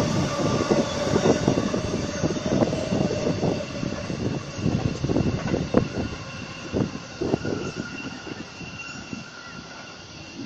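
Train pulling away from the station after passing through, its rumble fading steadily with irregular wheel clacks over the rail joints that grow fewer and fainter. A faint high whine from the rails sits over it.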